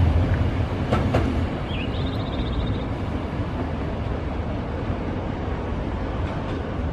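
Nankai 12000 series electric train running past on the tracks, a loud low rumble at first that fades as the train moves away. A brief high warbling tone sounds about two seconds in.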